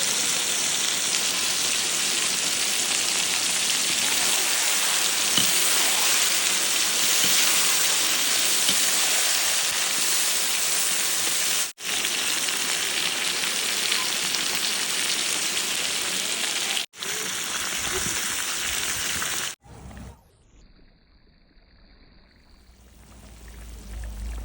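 Loud, steady sizzling of food frying in hot oil in a kazan over a campfire. It cuts out sharply twice and then falls away to a faint hiss a few seconds before the end.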